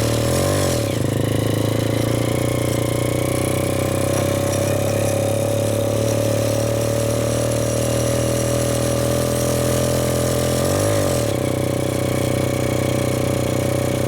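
Four-stroke motorcycle engine running steadily on the move, its pitch briefly rising and falling twice, about half a second in and again near eleven seconds.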